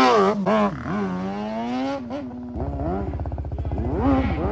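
Kawasaki 636 inline-four motorcycle engine in a Yamaha Raptor 350 ATV revving up and down as it is ridden, its pitch climbing steadily about a second in. From about halfway an engine idling with an even low pulse comes up closer.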